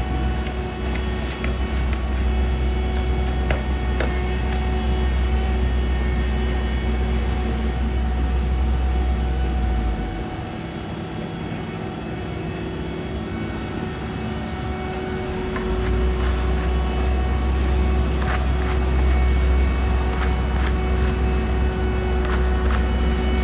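Diesel engines of heavy asphalt paving equipment running steadily, a deep rumble under a droning hum, with a few light clicks and knocks. The low rumble drops away for about five seconds midway, then returns.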